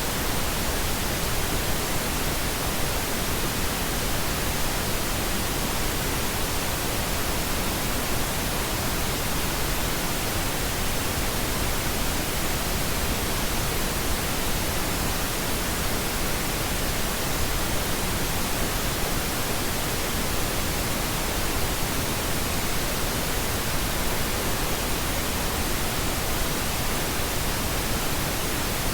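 Steady synthetic pink noise: an even, unbroken hiss spread across all pitches, with no changes or events.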